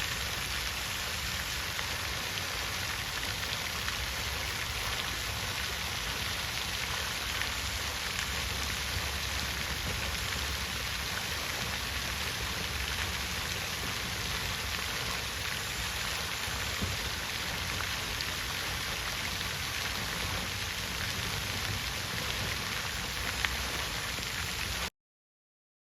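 Water fountain splashing steadily, a constant rush of falling water with scattered droplet patter; it stops abruptly near the end.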